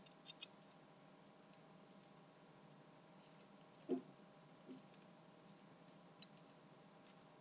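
Small plastic B-daman parts clicking as a power mantle tune-up gear is handled and fitted onto the toy: a few scattered sharp clicks, with a softer knock about four seconds in, over a faint steady hum.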